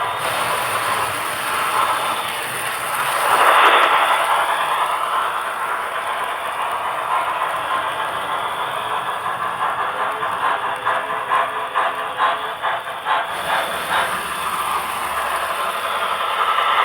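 HO-scale model train running along the layout track, a steady rolling rattle that swells to its loudest about three and a half seconds in, with a run of quick, evenly spaced clicks from the wheels over the rail joints later on.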